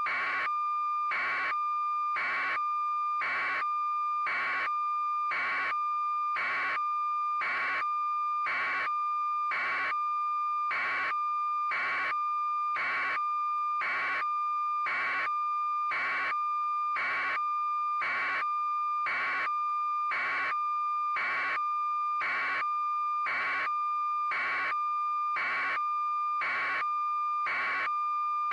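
A steady high electronic tone with a short buzzing pulse repeating about once a second, at an even, unchanging level.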